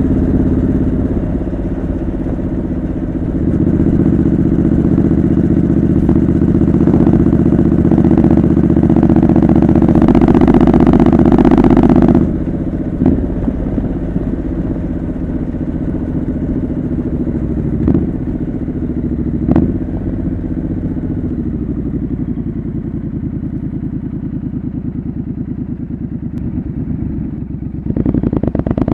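Triumph Scrambler 900's parallel-twin engine running through a homemade custom exhaust while riding: it pulls harder for several seconds, cuts back suddenly about twelve seconds in, then runs on lighter throttle with its pitch slowly falling and a few sharp clicks, before opening up again near the end.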